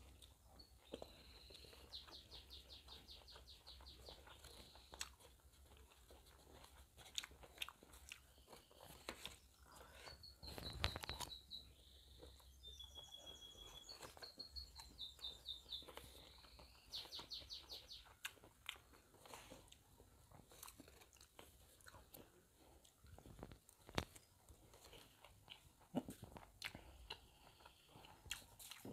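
Close-up chewing and crunching of mouthfuls of lotek, an Indonesian vegetable salad with peanut sauce and crackers, with the spoon clicking and scraping in the paper wrapping. A bird chirps in quick trills a few times in the background.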